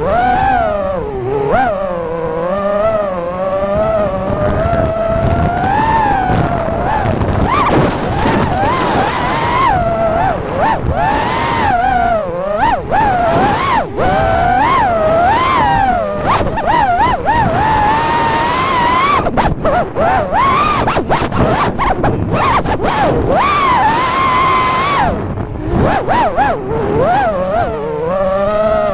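FPV quadcopter's brushless motors and propellers whining, the pitch swooping up and down constantly with the throttle, with brief dips in the sound now and then.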